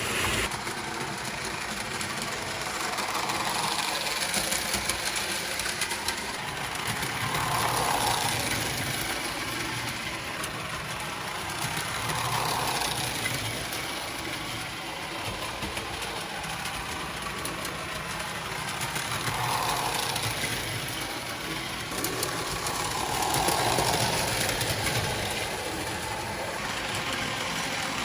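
Electric model train running on its track, a steady motor-and-wheel rumble that swells louder and fades again every four to five seconds.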